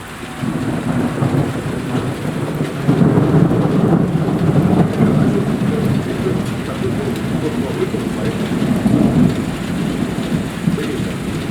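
Rolling thunder rumbling for several seconds, swelling about three seconds in and again near the end, over steady heavy rain.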